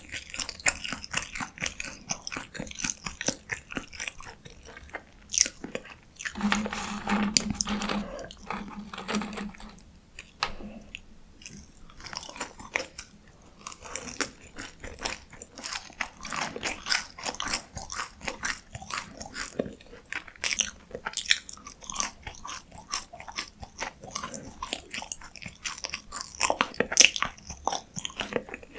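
Close-miked eating: biting and chewing crunchy food, with many crisp crunches one after another. Around six seconds in there is a low steady hum lasting about three seconds.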